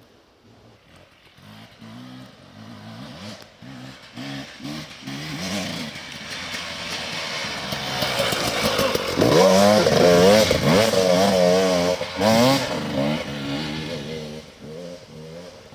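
Enduro motorcycle engine coming closer and then moving away, its pitch rising and falling quickly as the throttle is worked over rough ground. It is loudest as it passes about nine to twelve seconds in.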